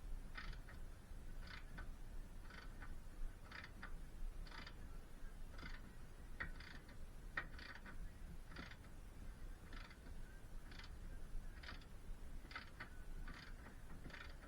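Hand-tool work on metal in regular short strokes, about one to two a second, over a low steady hum.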